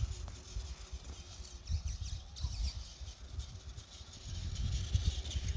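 Wind buffeting the microphone in uneven gusts, with small birds chirping in the background.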